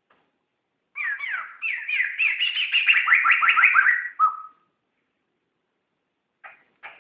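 Poksay (laughingthrush) singing a fast, loud run of downward-sliding whistled notes for about three seconds, ending with one short lower note. A few short, sharp notes begin another phrase near the end.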